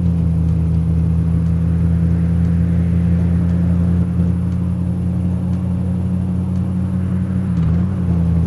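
Car engine and road noise of a moving car: a steady low drone, dipping and shifting in pitch briefly near the end.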